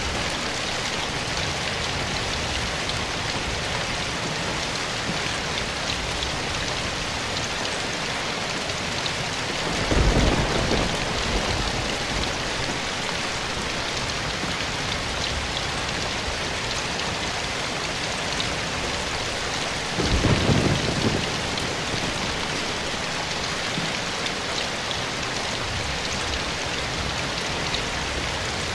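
Steady rain falling, an even hiss of many drops. It is broken twice, about ten seconds apart, by a sudden deep thud or rumble lasting about a second, the loudest thing heard.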